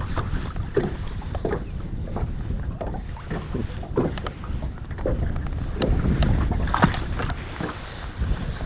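Wind buffeting the microphone as a low rumble, with water slapping irregularly against the boat's hull in short splashes, a bit heavier about two-thirds of the way through.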